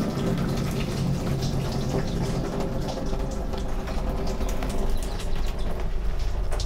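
A man urinating into a portable chemical toilet: a steady stream of liquid splashing into the tank.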